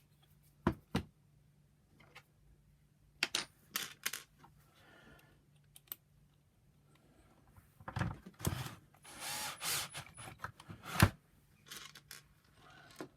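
Plastic parts of a vacuum power nozzle being handled and fitted together: scattered clicks and knocks, busier from about eight seconds in, with the sharpest knock about eleven seconds in.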